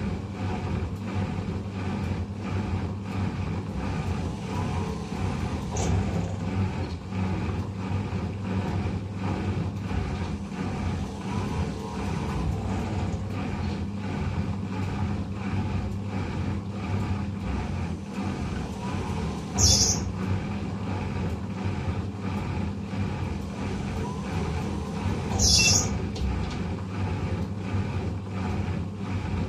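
Eudora 38 Super washing machine running, its motor and drum making a steady hum. Two short hissing bursts come at about twenty and twenty-six seconds in.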